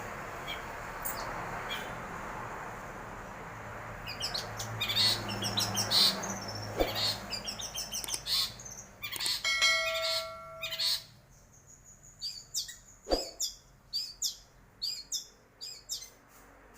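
Long-tailed shrike (cendet) singing: after a few seconds of steady background hiss, a fast run of high chirps, a short held note, then a string of separate sharp calls about one to two a second.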